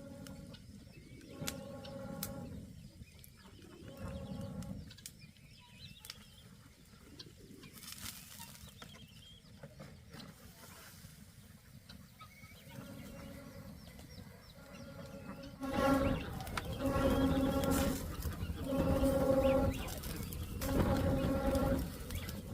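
Pigeons or doves cooing: a series of steady, hollow coos about a second long, with four louder coos in a row in the last third.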